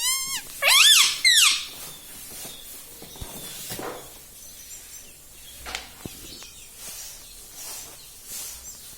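Ring-necked parakeet calling: a quick run of short chirps, then about a second in two loud, shrill calls that rise and fall in pitch.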